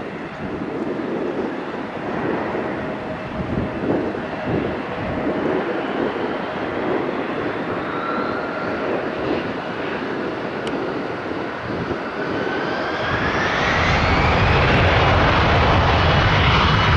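Boeing 747-8 jetliner's four GEnx turbofan engines on final approach: a steady jet rumble with a faint whine, growing louder about thirteen seconds in as the whine rises in pitch and a deep low rumble builds.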